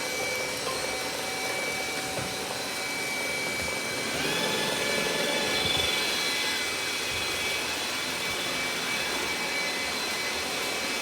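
Robot vacuum cleaner running: a steady whirring hiss with a thin high whine. About four seconds in it grows a little louder and a higher tone joins in.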